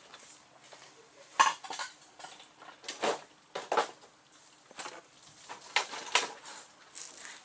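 Irregular metallic clinks and taps from hand tools and steel studs being handled while studs are fitted into a cylinder head, about ten separate clinks with short gaps between.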